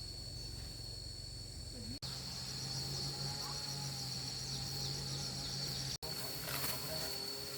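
Insects chirring in a steady, high-pitched chorus. A low steady hum joins it for a few seconds in the middle, and the sound cuts out abruptly twice.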